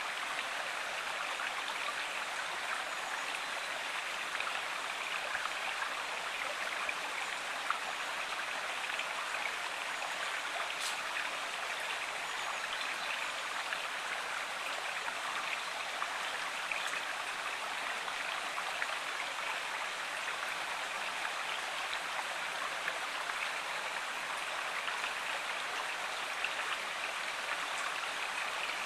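Stream water flowing and splashing in a steady, even rush.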